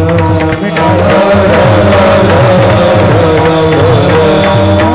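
Devotional kirtan music: a steady drone and a wavering melody line over rapid low drum strokes, with a constant high jingle of cymbals.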